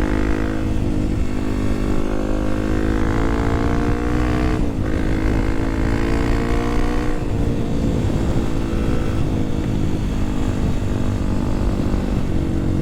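Kawasaki KLX300SM supermoto's single-cylinder engine pulling under acceleration, its pitch climbing, with a brief drop about four and a half seconds in as it shifts up, then climbing again before settling into steadier running after about seven seconds.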